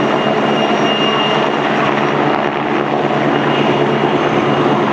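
Helicopter running steadily overhead, its engine and rotor making a loud, unbroken drone.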